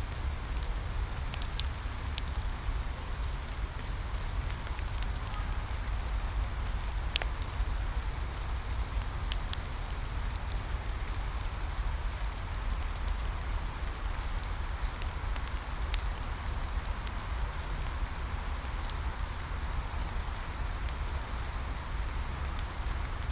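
Steady rainfall hissing, with a low rumble underneath and scattered sharp crackles and pops of a wood fire.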